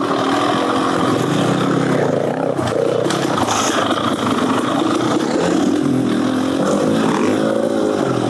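Beta Xtrainer 300 single-cylinder two-stroke dirt bike with an FMF Gnarly exhaust, ridden under way, its engine pitch rising and falling as the throttle opens and closes.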